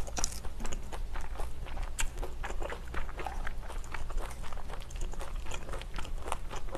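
Close-miked chewing of a mouthful of food: an irregular run of short, wet mouth clicks and smacks over a low, steady hum.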